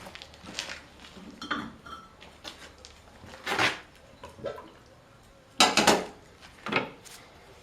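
Metal tools and engine parts being handled, clinking and clanking now and then. The loudest run of clanks comes about two thirds of the way through.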